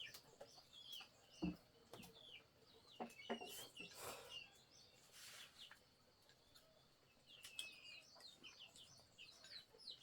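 Faint, repeated short high chirps of small birds, with a few light clicks scattered among them.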